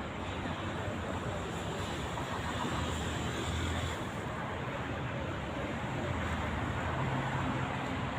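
Road traffic on a city street: a steady wash of car and tyre noise with a low engine hum that swells twice as vehicles pass.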